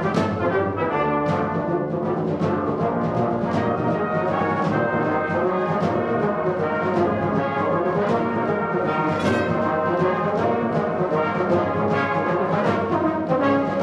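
Orchestral background music led by brass, with a steady beat.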